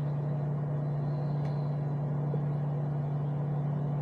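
Small 0.6 cu ft microwave oven running on high, a steady low hum, drawing about 1300 watts from a portable power station.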